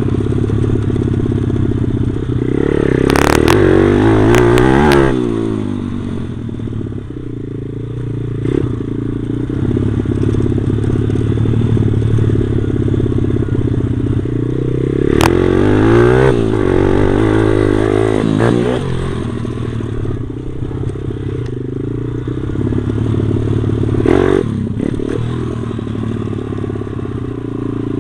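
Stomp pit bike's small single-cylinder four-stroke engine running as it is ridden, revving up and back down twice, with a smaller rev near the end. A few sharp knocks and some clatter sound over the engine.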